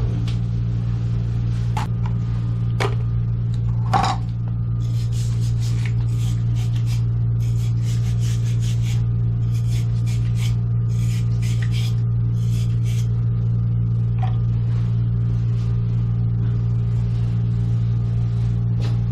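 A steady low mechanical hum that stays level throughout, with a few scattered knocks and clicks over it; the sharpest knock comes about four seconds in.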